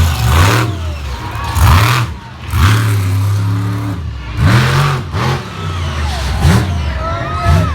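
Monster truck engine revving in repeated sharp blips over a steady low running note, about six throttle stabs.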